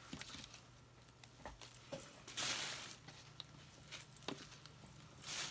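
A bag rustling as leftover craft flowers are put back into it, louder about two seconds in and again near the end, with a few light taps and clicks in between.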